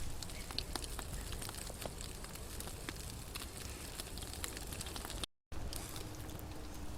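Wood fire crackling: irregular small pops and snaps over a soft hiss, breaking off for a moment about five seconds in.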